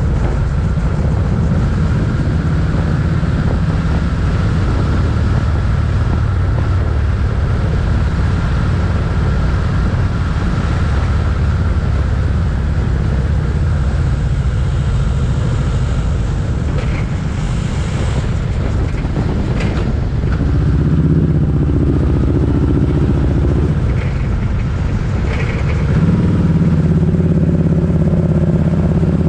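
Motorcycle engine running steadily under way. Its note steps up and gets a little louder about two-thirds of the way through, and again near the end.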